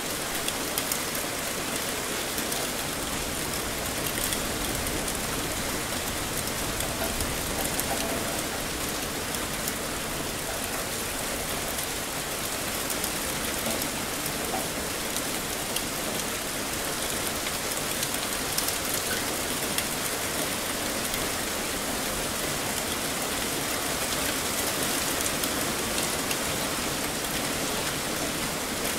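Heavy rain falling steadily: a dense, even hiss with the sharp ticks of individual drops striking nearby surfaces.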